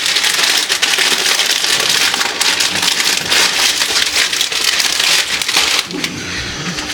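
Dense crinkling and rustling of a snack-chip bag and the chips inside it as they are portioned out into small plastic baggies; the crackle eases off about six seconds in.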